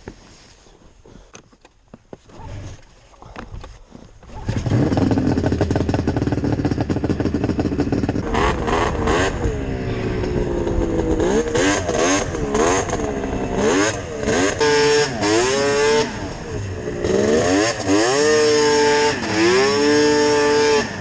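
Yamaha VMAX 700 triple snowmobile's piped two-stroke engine, with Hauck pipes. After a few seconds of faint clicking it comes in suddenly and loud, then is revved over and over, its pitch rising and falling with each burst of throttle.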